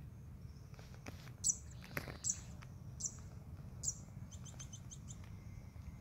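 A small bird chirping: four short high notes under a second apart, then a quick trill of high notes near the end, over a steady low rumble.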